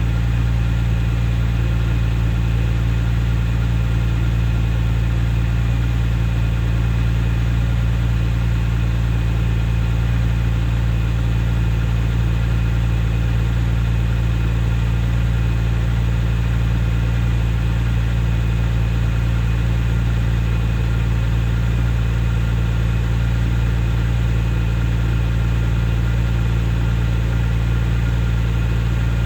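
Porsche 996 Carrera 2's water-cooled flat-six idling steadily during its cold-start warm-up phase, through a Fabspeed aftermarket exhaust.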